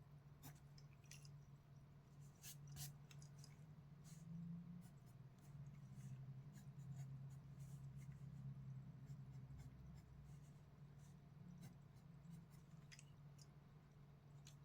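Faint scratching of a pencil drawing on paper, in short irregular strokes, over a low steady hum.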